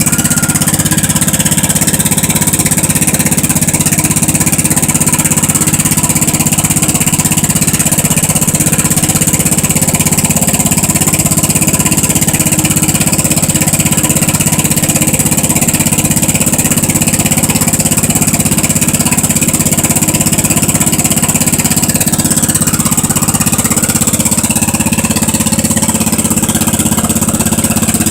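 Wheel Horse garden tractor engine running steadily after a cold start, the tractor not having run for a month.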